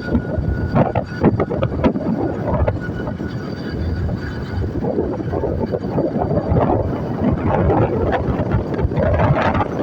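Wind buffeting the microphone: a loud, irregular rumble with gusty surges.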